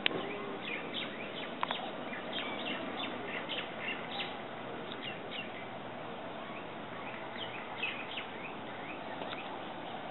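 Birds chirping: many short, high chirps, scattered and irregular, over steady outdoor background noise.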